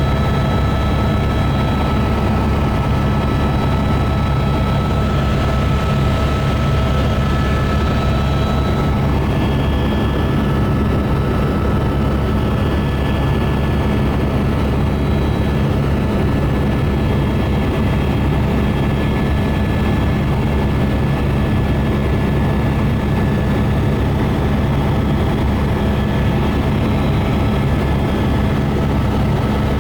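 Helicopter in flight: a loud, steady low rotor drone under a constant high turbine whine. The whine's tones shift slightly about nine seconds in.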